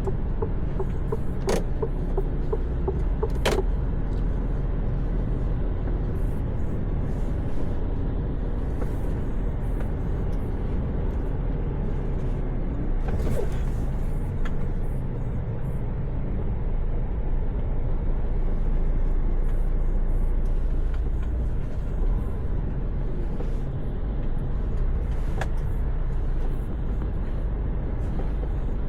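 Steady low rumble of a Mercedes-Benz Actros truck's engine and road noise, heard from inside the cab. A few light clicks are heard now and then.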